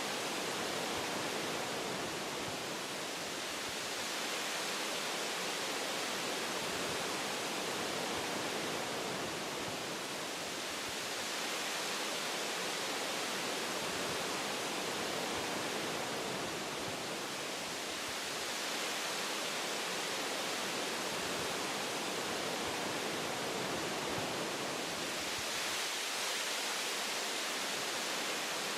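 Wind blowing through forest tree branches: a steady rushing hiss that swells and eases gently every several seconds.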